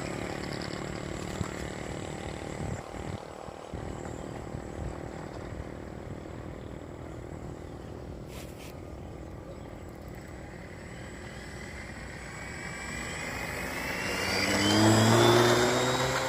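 Electric brushless motor and propeller of a large RC model plane (Piper Cherokee scale model), faint at first, then a whine rising in pitch and growing loud near the end as the motor spools up or the plane passes close.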